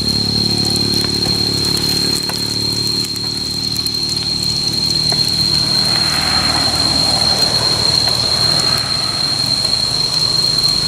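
Tofu frying in hot lard, the fat sizzling, with the sizzle growing stronger about halfway through. A steady low hum and a constant high-pitched whine run underneath.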